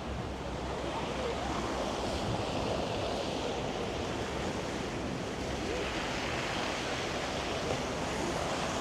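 Steady rushing wash of passing street traffic, with wind on the microphone.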